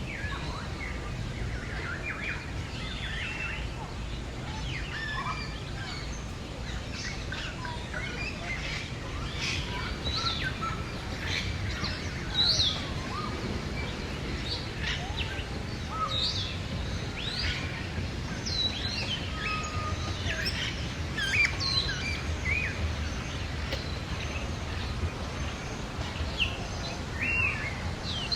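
Many birds chirping and calling together, short high chirps and whistles overlapping throughout, over a steady low background rumble.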